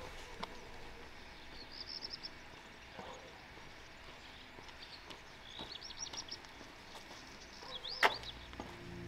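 Small birds chirping in short, high trilling phrases, with a faint open-air background. One sharp click sounds about eight seconds in.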